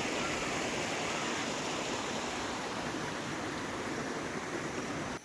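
Steady rush of a small stream of running water flowing, which cuts off suddenly at the very end.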